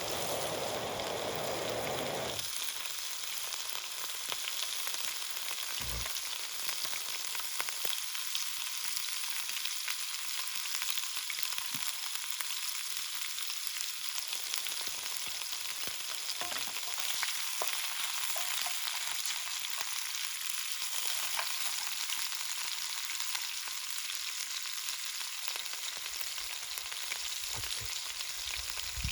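Steady sizzling with fine crackles: food cooking in a pot or pan over campfire embers.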